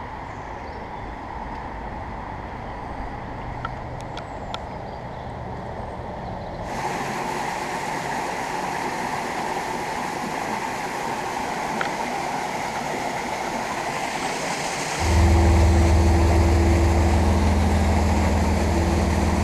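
Flowing river water, a steady rushing hiss that shifts abruptly twice. For the last few seconds a loud, steady low hum with several tones lies over it.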